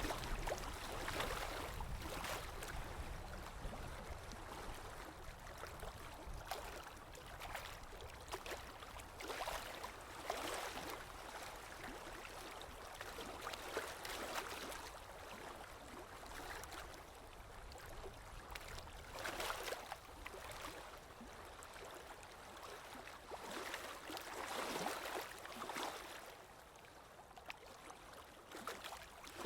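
Sea waves washing in and breaking in surges every few seconds, at uneven intervals, over a steady low rumble of surf.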